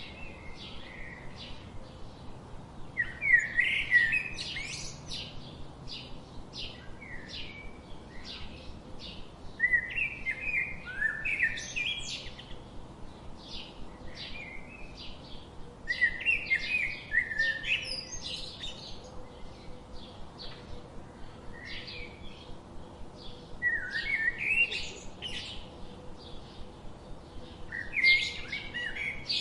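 Small birds chirping: loud bursts of rapid, rising chirps about every five to seven seconds, with quieter, steadily repeated chirps in between.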